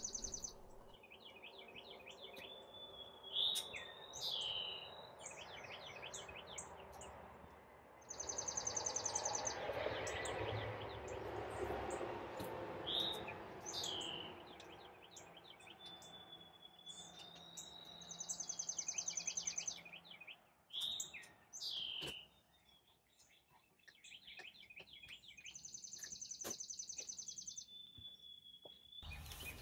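Outdoor birdsong: high chirps and slurred whistled notes, with a short buzzy trill that comes four times. Scattered light clicks and knocks, as of handling metal smoker racks and doors, sound among the birds.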